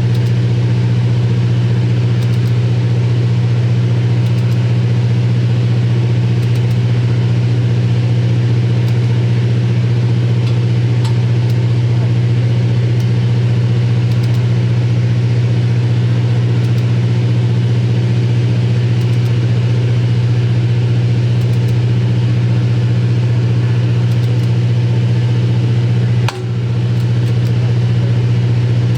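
A running machine's steady, loud low hum, which drops sharply for a moment about 26 seconds in and then comes back up.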